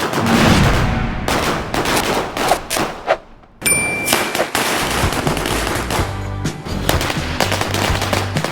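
A string of small firecrackers (a wala garland) bursting in a rapid, continuous crackle of bangs. It breaks off briefly about three seconds in, then starts up again.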